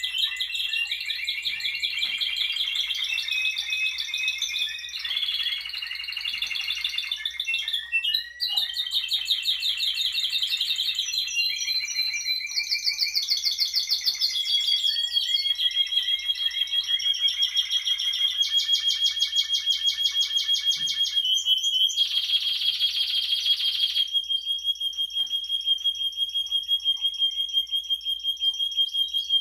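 Timbrado canary singing: a continuous run of rapid trills and rolls that switch pattern every second or two, then a long held high note through the second half.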